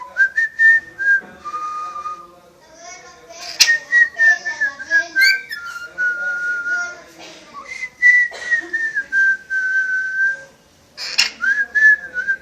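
Whistling in long, clear single notes, about six of them, each held for a second or two and several sliding slowly down in pitch, with a few sharp clicks in the gaps.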